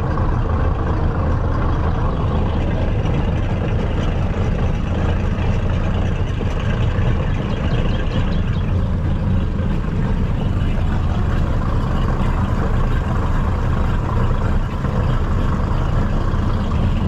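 Inboard engine of a high-performance boat running steadily at low speed, a constant low rumble with no revving.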